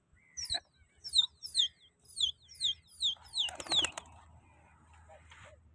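A small bird calling in a rapid run of short, high chirps, each falling in pitch, about three a second, with a few sharp clicks as the run ends.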